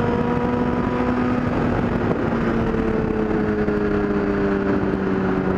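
Yamaha R6's inline-four engine running at a steady cruise, its pitch sinking slowly as the bike eases off, under a constant rush of wind and road noise.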